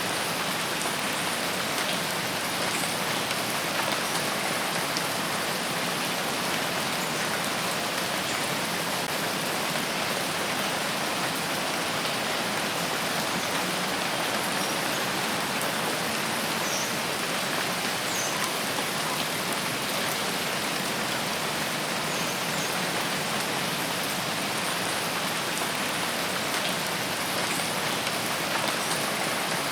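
Steady heavy rain falling, a continuous even hiss of drops on leaves and surfaces.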